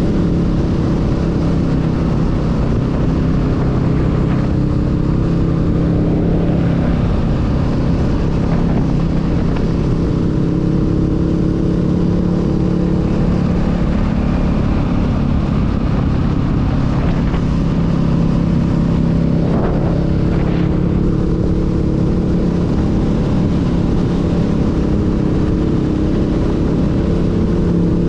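Honda Rebel 500's parallel-twin engine running at a steady cruise on the road, its note shifting a little in pitch now and then, over a constant rushing noise.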